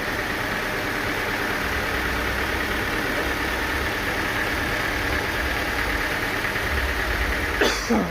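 Sawmill engine running steadily with a low throb. Just before the end there is a brief louder burst whose pitch drops quickly.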